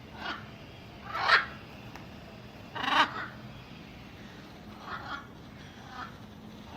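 Macaws squawking: harsh, raspy calls every second or two, the loudest about a second in and again about three seconds in, with fainter calls later.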